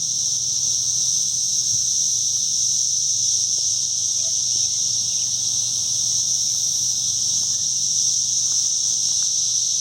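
Chorus of cicadas: a continuous, steady high-pitched drone that does not rise or fall.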